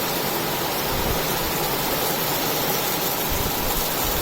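Heavy monsoon rain pouring down in a steady hiss.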